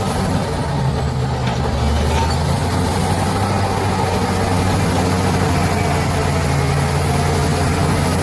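Diesel bulldozer engine running steadily under load, a low, even engine note with no change in pitch.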